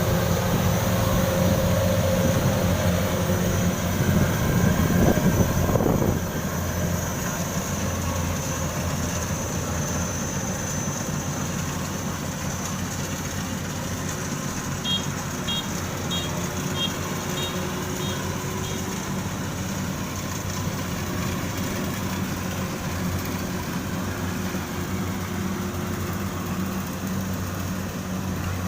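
Kubota rice combine harvester running steadily at work, its diesel engine giving an even low hum. The sound is louder for the first six seconds or so, then drops a little and holds. About halfway there is a short run of quick high beeps.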